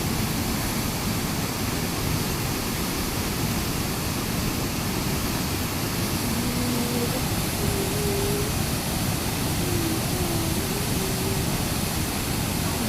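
Steady, loud rushing noise with no breaks. Faint short pitched sounds come and go in the second half.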